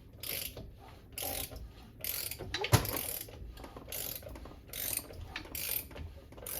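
A ratchet clicking in short repeated strokes, about one a second, as a BSA A65 twin engine is turned over by hand to work its valve gear, with one louder knock about three seconds in.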